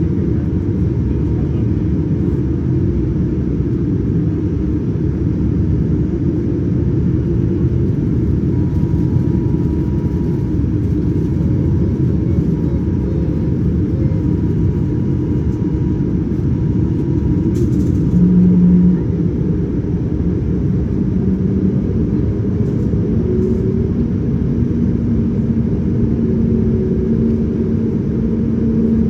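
Steady low rumble of cabin noise inside a Boeing 787-9 with its engines running, with a brief louder patch about two-thirds of the way through.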